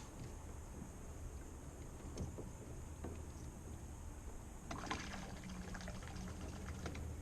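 Water splashing and trickling around a small john boat for about two seconds, starting near the middle, over a steady low hum.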